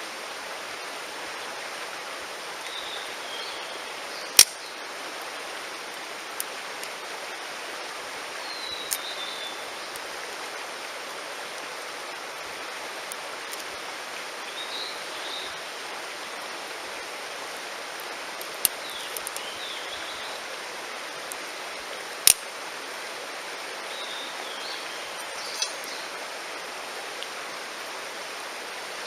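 Mountain stream rushing steadily, with short high chirps about every five seconds and a few sharp pops of wood crackling in a campfire.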